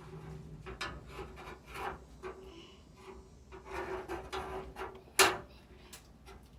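Tools and parts being handled: irregular scraping and rubbing, with one sharp clack about five seconds in.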